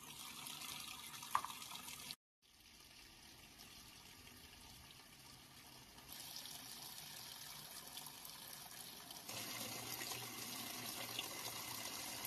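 Top-loading pulsator washing machine filling with water, water pouring into the tub in a steady rush. There is a brief break about two seconds in, and the rush gets louder in steps later on.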